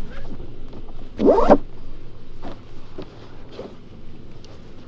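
A zipper on a kit bag pulled open in one quick rising rasp about a second in, followed by a few faint handling clicks.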